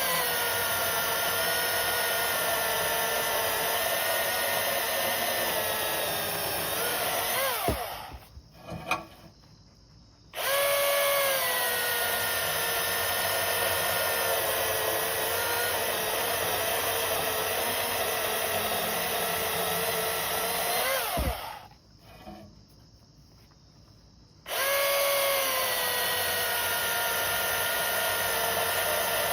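Milwaukee M18 Fuel 16-inch battery chainsaw running and cutting through a log: a steady electric motor whine in three long runs, its pitch dipping slightly as the chain bites into the wood. Twice it stops and the whine falls away as the motor spins down, then it starts again after a short pause.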